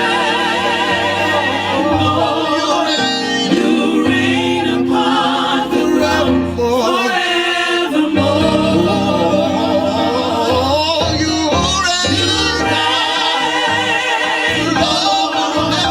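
African-American gospel choir singing with vibrato over instrumental backing whose low bass notes change every second or two.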